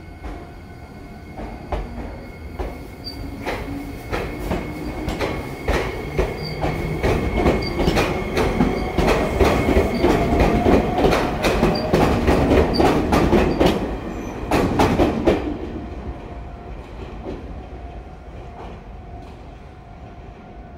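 An Iyotetsu electric train pulling out of the station and running past: its wheels clatter over the rail joints, and the clicks come faster as it picks up speed, over a rising whine. It is loudest as the cars go by, then fades quickly once the last car has passed.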